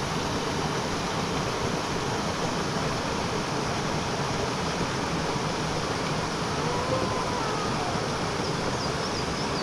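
Steady rushing of a small mountain stream flowing.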